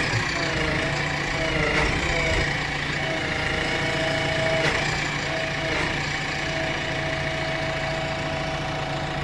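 Diesel engine of a heavy machine idling steadily.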